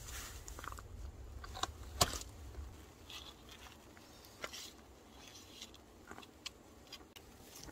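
Eating sounds: chewing and biting into roasted lamb, with scattered small clicks and ticks, the sharpest about two seconds in.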